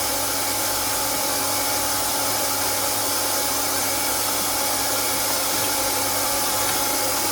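Hot-air plastic welding gun (heat gun) running steadily: an even blower hiss with a constant motor hum.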